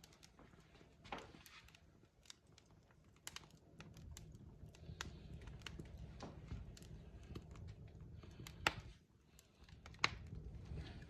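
Log fire crackling: irregular sharp pops and snaps, a few louder than the rest, over a low rumble from the flames that comes up about four seconds in.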